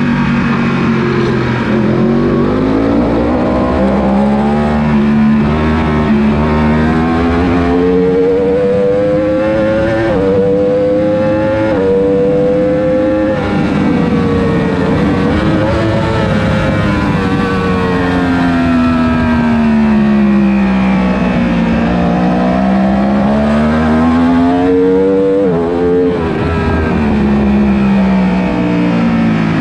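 1000 cc superbike engine at racing revs, pulling hard up through the gears with quick drops in pitch at each upshift, then falling away as it slows for corners. It climbs and falls like this several times.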